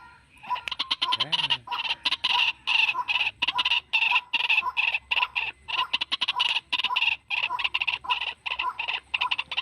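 White-breasted waterhen (ruak-ruak) calling in a rapid run of short, repeated notes, several a second: a recorded lure call used to draw wild waterhens in.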